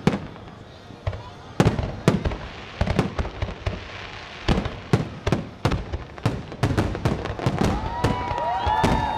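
Fireworks finale: aerial shells bursting in a rapid, irregular barrage of bangs, about two a second and coming faster toward the end. Near the end several high gliding whistles sound over the bangs.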